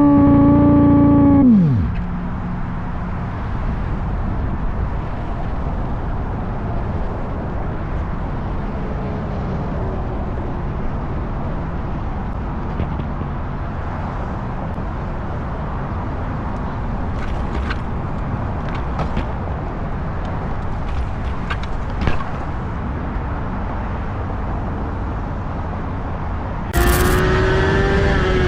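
A motorcycle ride, heard from on the bike: at first the engine is at high revs, and its note drops off about a second and a half in. Then come a long stretch of steady wind and road rush with only faint engine sound and a few light ticks. Near the end the engine revs up loudly again, its pitch rising and then falling.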